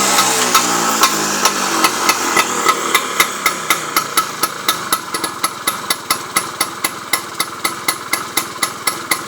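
A Vespa scooter engine running through a VW silencer settles from a rev into a slow idle. The exhaust gives a sharp, even pop about three to four times a second.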